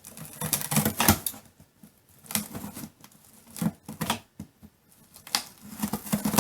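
Large cardboard shipping box being opened by hand: irregular bursts of tearing, scraping and clicking with short pauses between them.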